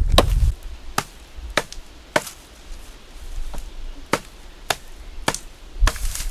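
Axe chopping into a dry willow trunk: a steady run of sharp wooden blows, about two a second, with a short pause midway.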